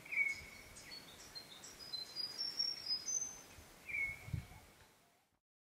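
Birds calling. A clear, slightly falling call comes twice, at the start and about four seconds in, with a run of short, high chirps from another bird between them. A soft low thump sounds just after the second call.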